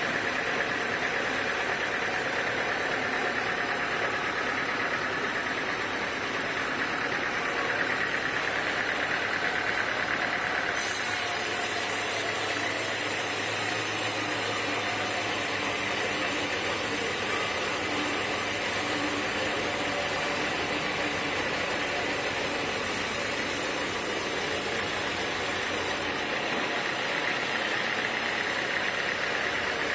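Sawmill machinery running steadily. A high hiss joins about a third of the way in and stops about four seconds before the end.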